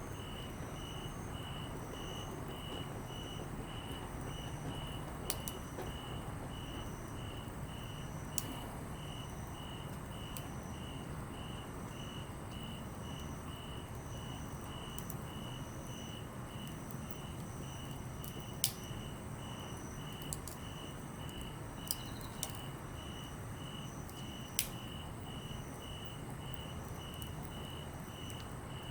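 Chirping insects keep up a steady pulsed chirp about twice a second, with a higher, broken trill from a second insect. Under it a wood campfire burns with a few sharp pops.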